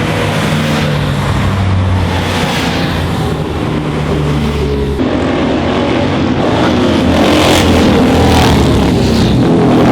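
Classic racing car engines at full throttle on a hillclimb. One car's engine runs steadily, then about halfway an abrupt switch brings a louder car accelerating hard through its gears, its revs rising and dropping at each shift.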